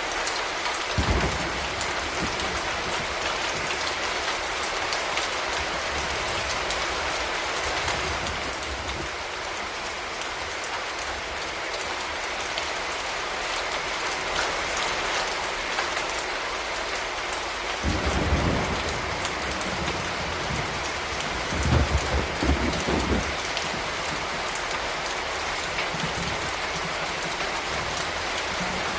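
Steady rain falling on hard surfaces: a dense, even hiss of drops. A few brief low rumbles come through about a second in and again around eighteen and twenty-two seconds.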